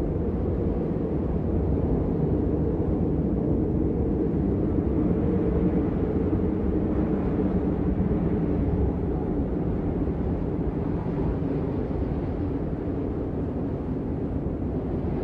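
Blizzard wind ambience: a steady, low rumble of wind that swells slightly and eases without a break.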